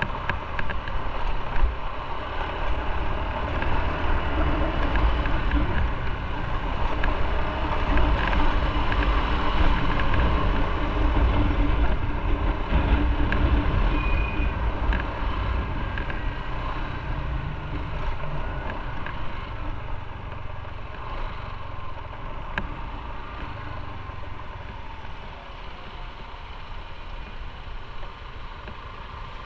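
Motorcycle on the move: the engine running under a heavy rush of wind on the microphone. The sound swells in the middle and eases off toward the end.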